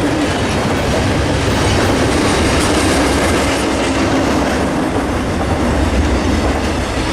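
Intermodal freight train's cars rolling past close by: a loud, steady rumble of steel wheels on the rails.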